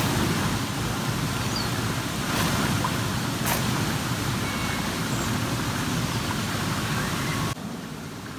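Wind buffeting the microphone outdoors: a steady rushing, rumbling hiss that drops off suddenly near the end. A single short click comes about three and a half seconds in.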